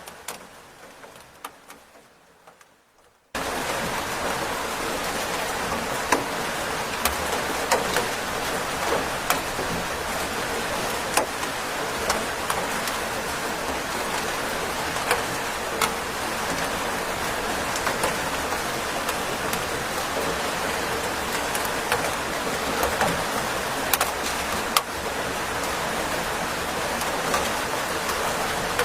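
Steady rain, an even hiss dotted with sharp individual drop hits, cutting in abruptly about three seconds in after a faint, fading lead-in.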